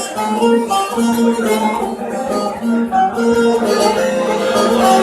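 Bağlama (Turkish long-necked saz) playing the instrumental introduction to a folk song, a continuous plucked melody.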